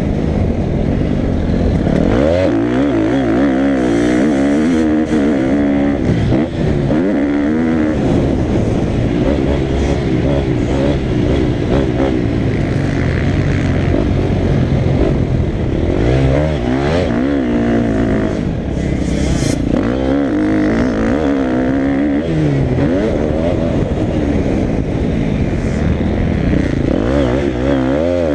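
Motocross bike engine being ridden hard, its pitch climbing and dropping again and again as the throttle opens and closes and gears change.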